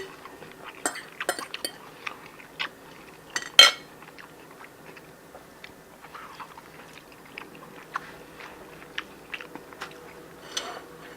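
Cutlery clicking and clinking on dishes at a meal: scattered light taps, with one louder clink about three and a half seconds in.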